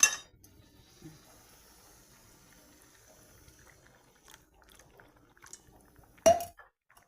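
Water being added to a pot of cooking rice: a faint steady hiss of liquid in the pot, opened by a loud knock and followed about six seconds in by a metallic clink with a short ring, as of a pot or lid being handled.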